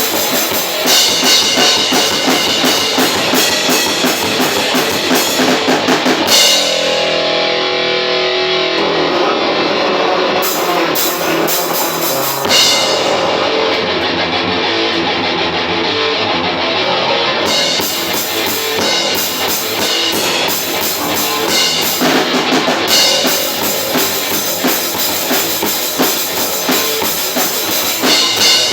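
Metal band playing live in rehearsal: drum kit and electric guitar at full volume. The cymbals drop out twice, from about six to twelve seconds in and again from about thirteen to seventeen seconds, leaving the guitar and drums underneath before the full kit returns.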